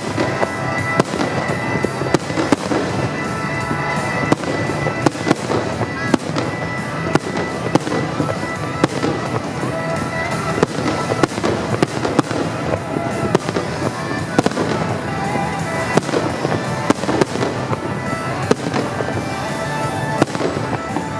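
Fireworks display: aerial shells bursting in frequent sharp bangs, one to several a second, over music.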